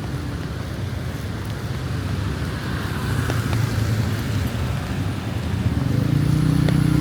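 A motor vehicle's engine running close by, its low hum getting louder over the last second or so, against the steady sound of rain falling on the street.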